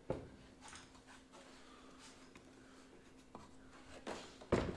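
Light scraping and small knocks of things being handled on a workbench, with a sharp knock at the start and a louder one near the end.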